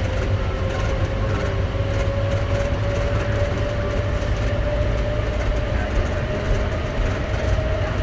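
Denver airport's automated people-mover train (an older CX-100 car) running through its tunnel, heard from inside the car. There is a steady low rumble, and a thin motor whine slowly rises in pitch as the train gathers speed.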